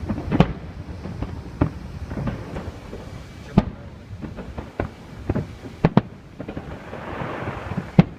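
A fireworks display with shells bursting in a string of irregular sharp bangs over a low rumble. There is a stretch of hissing crackle about seven seconds in.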